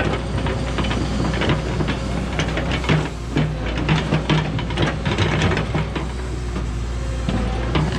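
Cat 314E tracked excavator working: a steady diesel engine drone with hydraulic hiss and frequent short clanks and knocks from the machine and its bucket on the soil.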